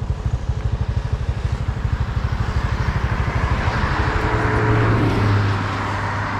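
A small engine running with an even chugging beat of about ten pulses a second, then picking up into a steadier, faster run about four seconds in.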